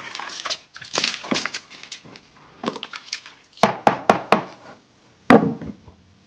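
Irregular knocks, clicks and short scraping or rustling sounds, as of objects being handled. There is a quick run of sharp clicks a little before the middle and a heavier knock about five seconds in.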